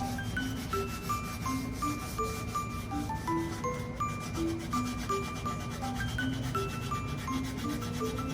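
Gentle background music: a light bell-like melody of short stepping notes over a soft lower accompaniment, with a faint steady scratchy rhythm underneath.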